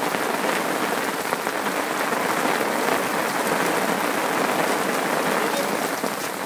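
Heavy thunderstorm rain pouring down: a loud, steady, dense hiss of countless drops, close to the sound of applause.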